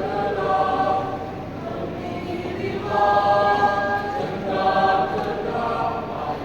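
Youth choir singing, with a note held for under a second about three seconds in.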